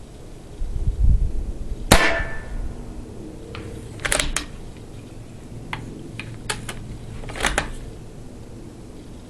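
CCM M40 bolt-action paintball rifle firing once: a sharp crack about two seconds in, with a short ringing tail. Several smaller clicks and clacks follow over the next few seconds. Just before the shot, wind buffets the microphone with a low rumble.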